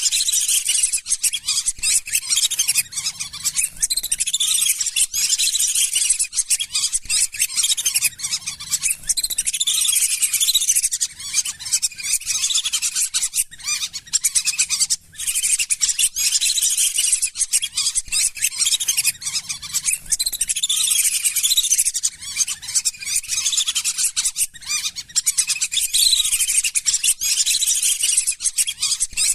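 A flock of lesser whistling ducks giving high, whistled calls, many voices overlapping in a continuous chatter, as in a lure-call recording. There is a brief lull about halfway through.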